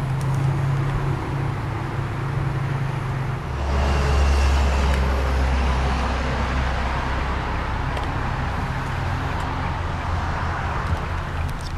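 A 2003 Infiniti G35 Coupe's 3.5-litre V6 idling steadily as a low hum. About three and a half seconds in, the hum drops lower and gets louder, then holds.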